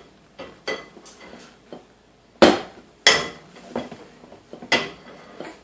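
Dishes clattering and clinking in a dishwasher as a small child handles them: a string of separate knocks, the loudest about two and a half and three seconds in.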